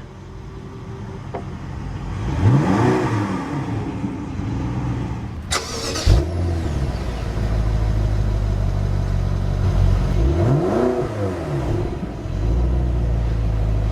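2012 BMW X5 M's twin-turbo 4.4-litre V8 running with the car parked and revved twice, about two seconds in and again about ten seconds in. Each rev climbs in pitch and falls back over about two seconds. A short sharp noise comes near the middle.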